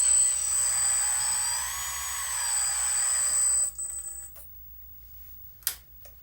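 Small electric motor and hydraulic pump of an RC construction model running with a steady high whine, its pitch rising and then falling once as the load changes, then cutting off about three and a half seconds in. A single sharp click follows near the end.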